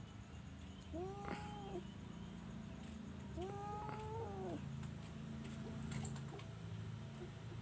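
A domestic cat meowing twice: two drawn-out meows that rise and then fall in pitch, the second longer than the first, over a steady low rumble.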